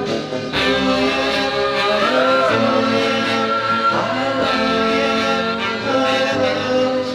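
A 1960 vocal-group song playing: held "ooh"-style harmony vocals over guitar and a backing band.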